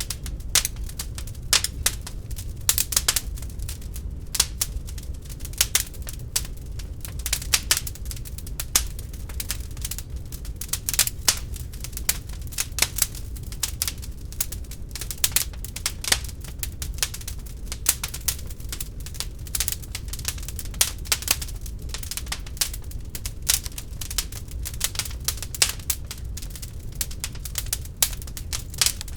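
Wood fire burning in a fireplace, crackling with many irregular sharp pops and snaps over a low steady rumble of the flames.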